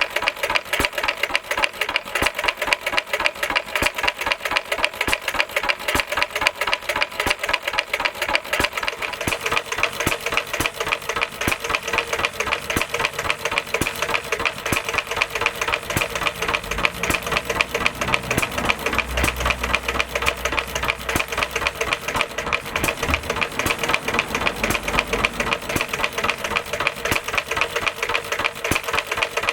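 Stuart 1/2 hp stationary engine running steadily through an extra silencer, with a rapid, even beat of firing strokes.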